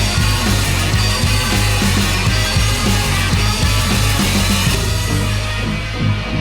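Loud rock music with heavy distorted guitars, a driving bass and drums; the high end drops away near the end.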